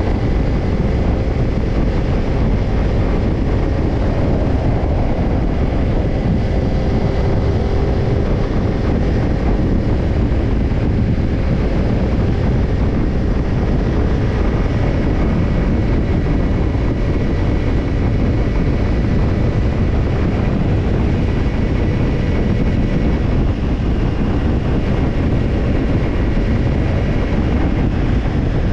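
Kawasaki Ninja 250's parallel-twin engine through a BEET Japan Nassert Evolution Type II titanium slip-on muffler, running at a steady pitch while riding, with wind rushing over the microphone.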